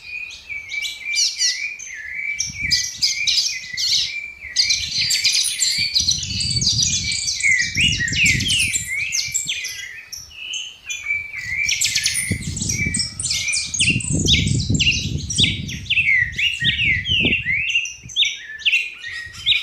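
Songbirds singing and chirping without pause, a dense stream of quick high chirps and trills. A low rumble comes in twice, for a few seconds about a third of the way in and again past the middle.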